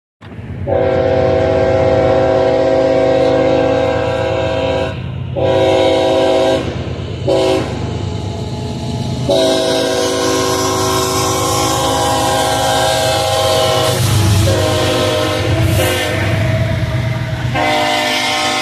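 Freight locomotive horn sounding a series of blasts, two long ones, a short one, then a long drawn-out one, the grade-crossing signal, over the low rumble of the passing train.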